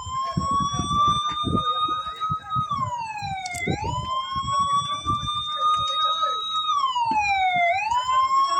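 Emergency vehicle siren wailing: a steady high tone that slides down and snaps back up about every four seconds, twice in this stretch. Irregular low rumbling and knocks sound underneath.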